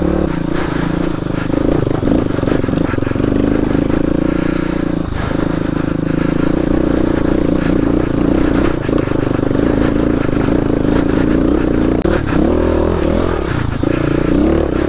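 Kawasaki KLX250S's single-cylinder four-stroke engine running steadily as the dirt bike rides over rock, with scattered clicks and scrapes; the revs rise and fall a few times near the end.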